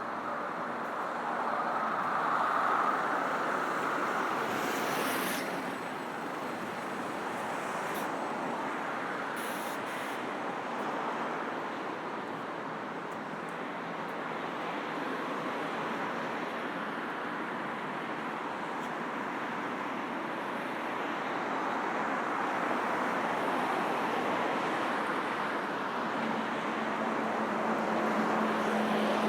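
Road traffic: a continuous rush of passing cars and buses whose tyre and engine noise swells and eases as vehicles go by, with the steady hum of an engine coming in near the end.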